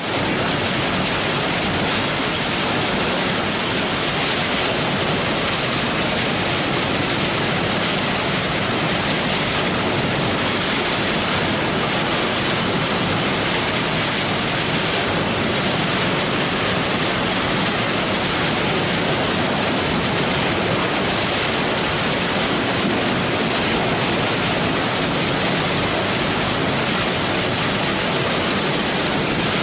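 Hammer mill shredding line running: a steady, even roar with no distinct impacts standing out.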